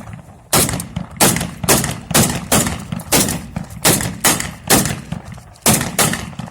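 Military funeral gun salute: a rapid string of about thirteen sharp rifle shots, two or so a second, each trailing off in a short echo.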